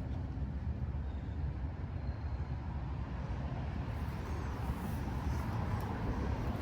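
A steady, deep outdoor rumble with no distinct events.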